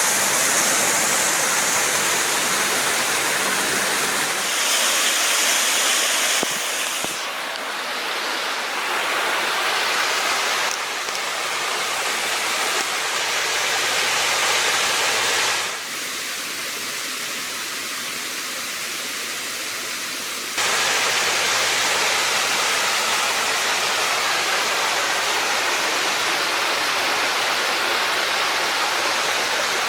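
Steady rushing of creek water, a continuous even noise with no voice over it. The level and tone change abruptly a few times, dropping and then jumping back up about two-thirds of the way through.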